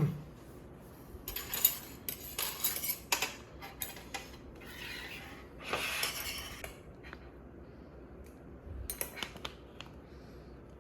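Light clatter and rubbing of small hard objects, in three short spells with a few sharp clicks.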